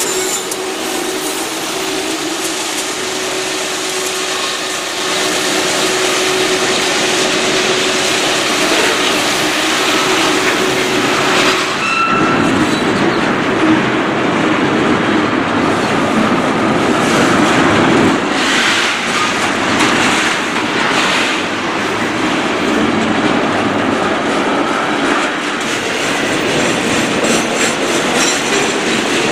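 Diesel freight train passing close by: the locomotive's steady hum fades out about eleven seconds in, then the hopper, tank cars and boxcars roll by with a continuous rumble and wheel clatter. A short wheel squeal is heard around twelve seconds in.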